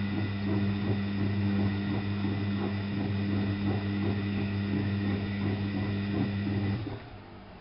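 Alaska WA8200 E washing machine's drain pump humming steadily and loudly, then cutting off suddenly near the end.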